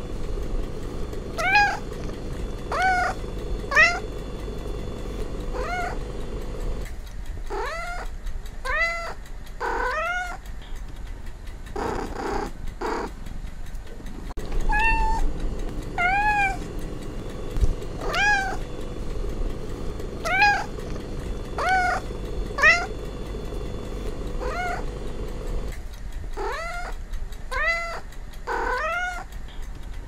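Domestic cat meowing over and over in short meows, about one every second or two, with a few seconds' pause around the middle and again about two-thirds of the way through.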